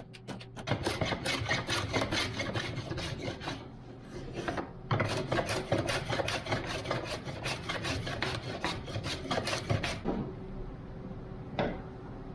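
Quick back-and-forth strokes of a hand tool scraping on wood, as in hand sanding or rasping, about four or five strokes a second, with a short break about four seconds in, stopping about ten seconds in. A single sharp click follows near the end.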